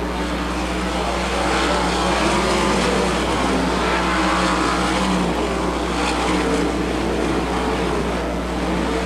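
Sprint cars racing on a dirt oval under green, a pack of engines at full throttle, swelling louder for a few seconds in the middle as cars come past.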